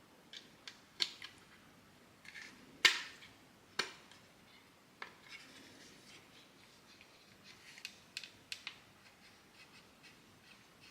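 Hard 3D-printed plastic parts clicking and knocking as they are handled and fitted together, in an irregular series with two louder snaps about three and four seconds in.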